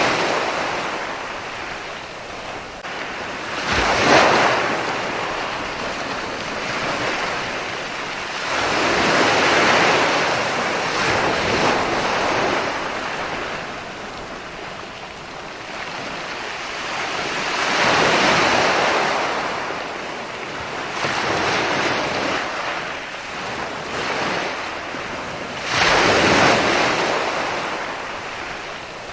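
Ocean waves breaking and washing onto shore, a continuous surf hiss that swells with each wave, about every four to eight seconds, with the strongest breakers near the start and end.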